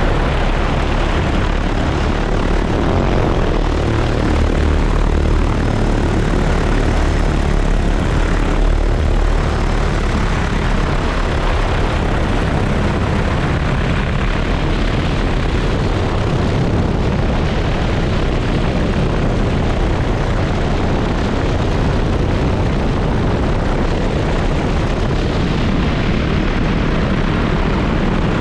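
Propellers of a crop-spraying drone running steadily as it flies, a loud even whirr.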